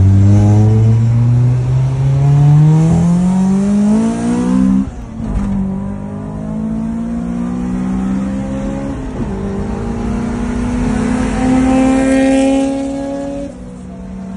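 Honda DC5's four-cylinder engine pulling hard under full acceleration, heard from inside the cabin. Its pitch climbs steadily through a gear, drops at a gear change about five seconds in and again about nine seconds in, climbs once more, and falls away as the throttle is lifted near the end.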